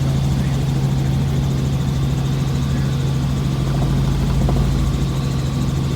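Helicopter in flight: the rotor and engine give a loud, steady drone with a strong low hum.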